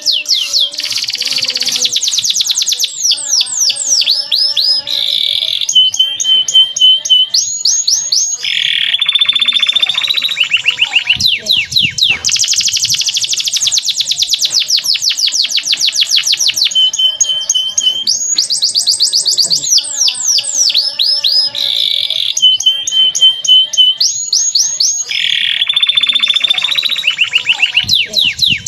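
Male canary singing without pause: long rapid trills of repeated notes, sweeping whistles and short held tones, high-pitched and clear. The same sequence of phrases comes round again about halfway through.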